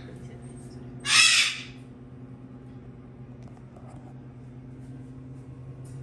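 A pet parrot gives one short, harsh squawk about a second in, over a steady low hum.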